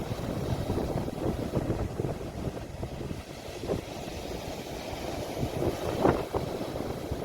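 Sea waves washing ashore, heard as a steady low rumble mixed with wind buffeting the phone's microphone.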